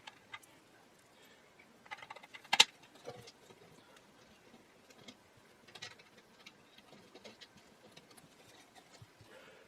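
Small parts and hand tools handled on a workbench: scattered light clicks and taps, the loudest a sharp click about two and a half seconds in.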